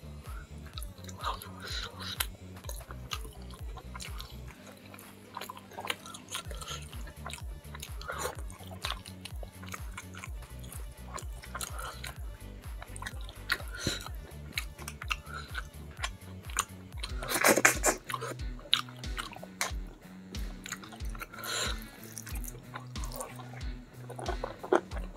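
Wet chewing and lip-smacking of a person eating spicy fish-head curry with rice by hand, with one louder wet sound about two-thirds of the way in. Background music with a steady low beat runs underneath.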